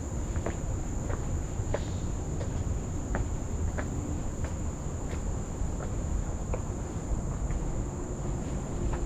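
Insects droning in one steady high-pitched tone, with irregular light clicks of footsteps on the trail and a low rumble underneath.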